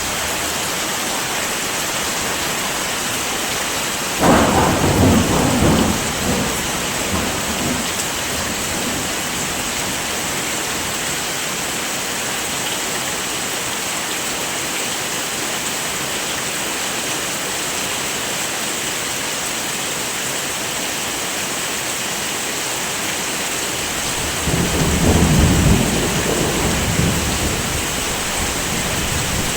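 Steady heavy rain with two rolls of thunder: one breaking suddenly about four seconds in and rumbling away over a few seconds, the other swelling up about twenty-four seconds in and fading near the end.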